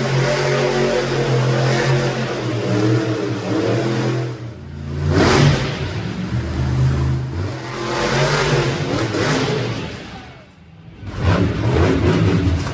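Monster truck engine revving hard under changing throttle. It backs off sharply twice, about four seconds in and again near ten seconds, and comes back up each time.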